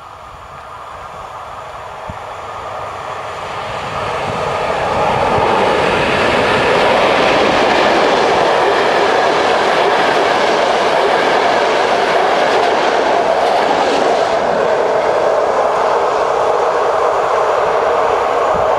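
Passenger train approaching a level crossing and passing close by, growing louder over the first five seconds, then a steady loud rumble and clatter of wheels on the rails as the coaches go past.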